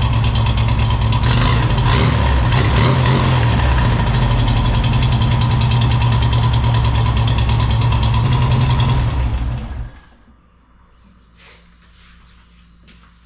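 Freshly reinstalled Volkswagen Beetle air-cooled flat-four engine on dual single-barrel Kadron carburettors, run with no air cleaners fitted, running steadily. It is shut off about ten seconds in and cuts out suddenly; a few faint clicks follow.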